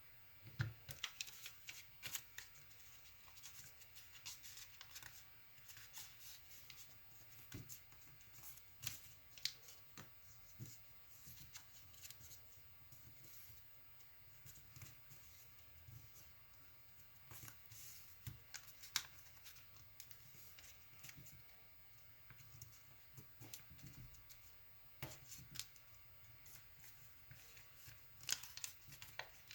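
A sheet of origami paper being folded and creased by hand: faint, irregular crinkles and ticks of paper, with a few sharper crackles now and then.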